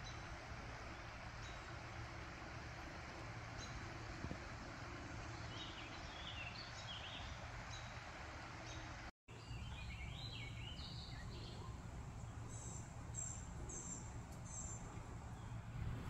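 Birds chirping over a steady outdoor background hiss, with a run of four short, evenly spaced high notes near the end. The sound cuts out for a moment just past halfway.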